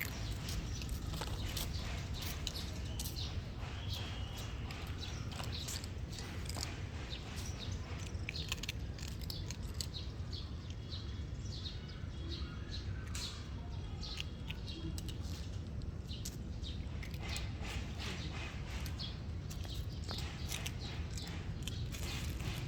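Cats chewing and eating food: a continuous run of small clicks and crunches over a steady low hum.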